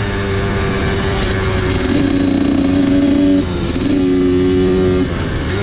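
Dirt bike engine running under throttle, a steady buzzing note that steps down in pitch about two seconds in, climbs back up a second and a half later, then drops again near the end.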